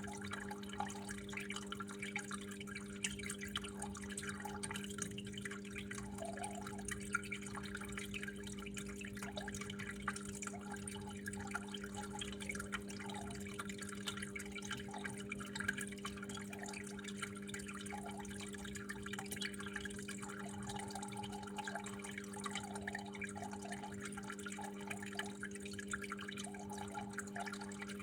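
Water steadily trickling and dripping, with a constant patter of many small drips and splashes over a steady low hum.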